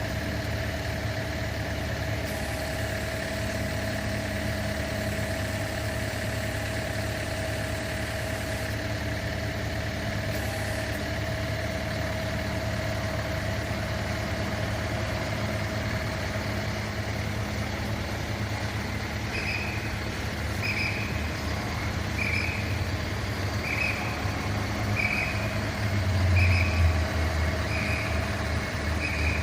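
Fire engine's diesel engine idling steadily. About two-thirds of the way in, a vehicle warning beeper starts, sounding short high beeps roughly once a second, and a brief low engine surge comes near the end.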